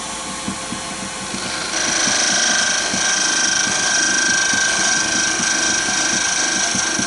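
Wood lathe running with a turning tool cutting into the spinning wood, a sizing cut taken a little deeper toward a 12 mm diameter. About two seconds in the cut gets louder with a steady high-pitched whine, which stops suddenly at the end as the tool comes off.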